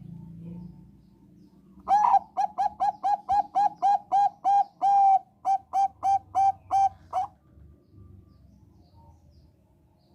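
Zebra dove of the Thai 'perkutut bangkok' strain singing one song, starting about two seconds in: a run of about twenty quick, clipped cooing notes at roughly four a second, with one longer note about halfway and a short pause after it, lasting some five seconds.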